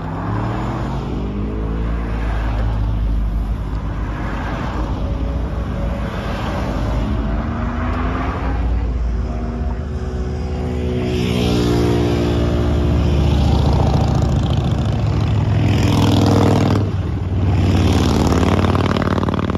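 Car engine running hard under acceleration, its pitch climbing and dropping back several times, with a brief drop in level near the end.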